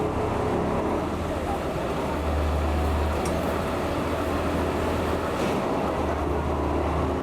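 Steady low mechanical rumble, with a deep hum that swells twice, once about two seconds in and again near the end.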